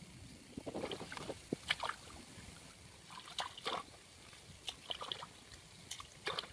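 Irregular water splashes and sloshes with small knocks, coming in short scattered bursts.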